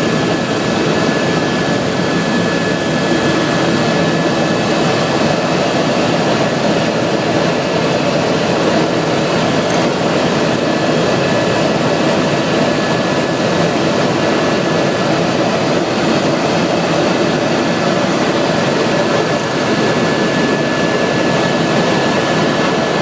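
Helicopter in flight: a steady, loud drone of turbine and rotor noise with a thin high whine running through it.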